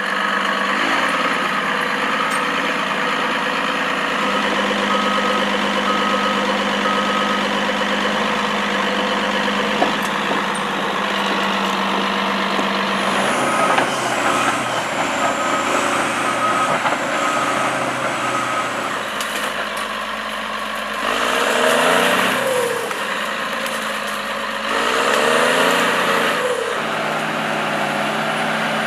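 A heavy machine's engine running steadily, with a repeating beep in two stretches, and the engine rising and falling in speed twice in the last third.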